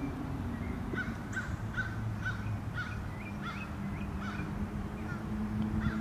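A bird calling repeatedly in short, rising chirps, about two or three a second, over a steady low drone.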